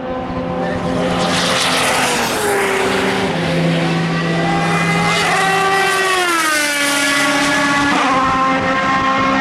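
Several endurance race cars running on track at once, their engine notes overlapping. One car passes close about a second or two in with a rush of noise, and a few seconds later engine notes fall in pitch as cars slow.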